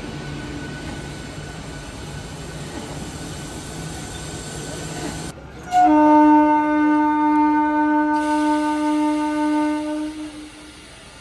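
A train running with a steady low hum, then, after an abrupt change, a train horn sounding one long steady blast of about four and a half seconds, much louder than the running noise.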